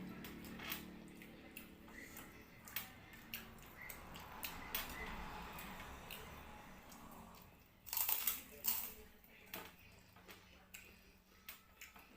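Eating at a table: scattered light clicks and taps of dishes and cutlery, with a louder clatter of several sharp clicks about eight seconds in.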